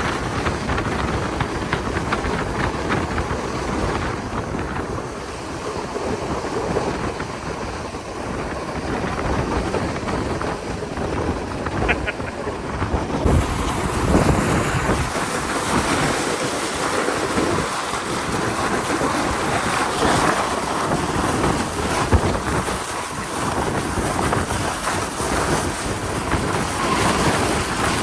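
Steady rushing noise with wind buffeting the microphone; the hiss gets brighter about halfway through.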